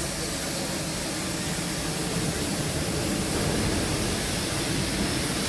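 Steady hiss of steam escaping from a standing Bulleid West Country-class steam locomotive.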